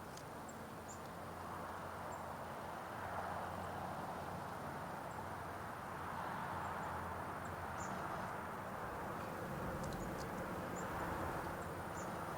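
Steady outdoor background rumble that swells and eases, with faint, high, short calls of small birds scattered through it and a few light taps about ten seconds in, fitting a red-bellied woodpecker pecking at a suet feeder.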